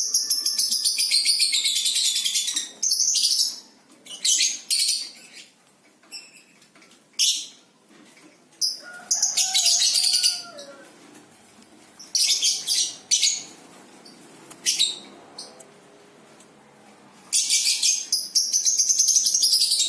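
A songbird singing in loud, rapid, high-pitched trills. The phrases come in bouts with short pauses between them: a long phrase falling in pitch at the start, a long phrase near the middle, and another near the end.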